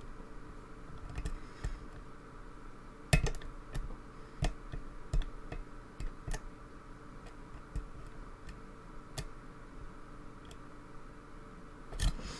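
Lock pick and tension bar working the pins of a challenge lock: irregular small metallic clicks and taps, one sharper click about three seconds in and another near the end.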